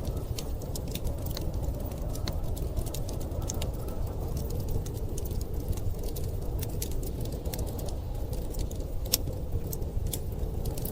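Wood fire crackling, with frequent small sharp pops at irregular moments, over a steady low rumble of storm wind.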